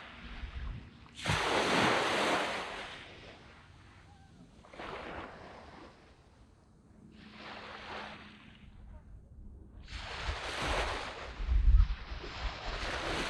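Small waves breaking and washing up a sand beach, one surge of surf every two to three seconds, each swelling and fading away; the biggest wash comes about two seconds in. A brief low rumble near the end.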